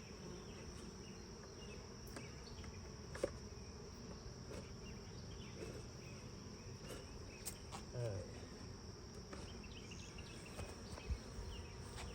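Honeybees buzzing around an open hive over a steady high-pitched insect trill, with a few sharp clicks from the hive being worked, the loudest about three seconds in.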